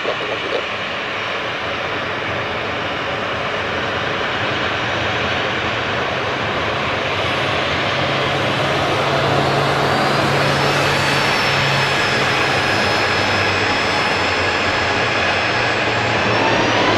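Jet airliner's engines running loud and steady, the noise slowly building, with a high whine coming in about ten seconds in and a tone rising in pitch near the end as the engines spool up.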